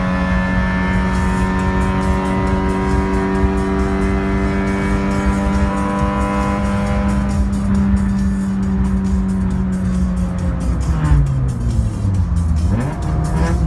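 Car engine running at high revs, heard from inside the cabin as a steady, loud drone. Late on its pitch falls away and then climbs again.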